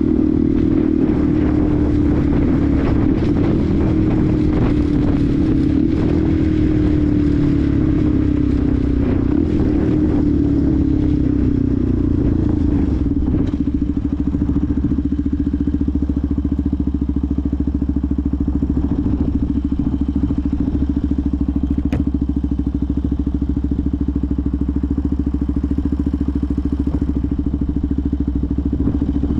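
Benelli TNT 125's single-cylinder engine slowing, its pitch falling over the first twelve seconds or so with rushing road and wind noise, then running at a steady low speed for the rest. One sharp click about twenty-two seconds in.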